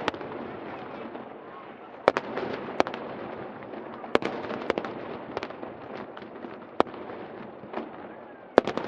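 Aerial fireworks going off in a string of sharp bangs at irregular intervals, over a steady murmur of crowd chatter.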